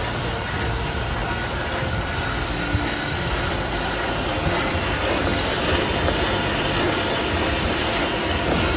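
Small automatic toilet-paper band saw cutting machine running: a steady, dense mechanical noise.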